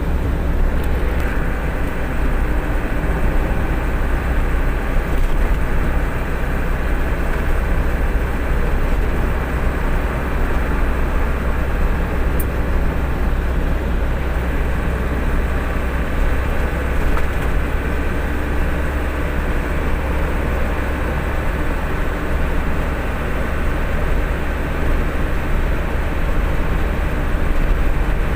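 Steady engine and road noise of a moving truck, an even, unbroken rumble strongest at the bottom end.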